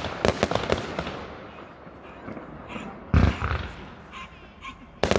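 Fireworks going off: a quick run of sharp cracks in the first second, a deep boom about three seconds in, and more sharp bangs near the end, each trailing off in echo.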